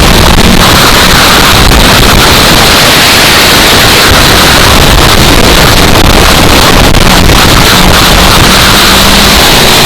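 Loud wind noise buffeting the microphone and swamping the recording, with the engines of racing stock cars faintly heard underneath at the start and again near the end.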